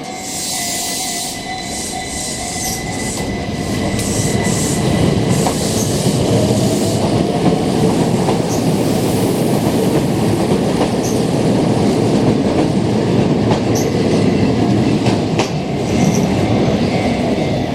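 Keihan Keishin Line electric train running on the rails, with wheel and track noise that grows louder over the first few seconds and then holds steady. Short high-pitched wheel squeals come and go.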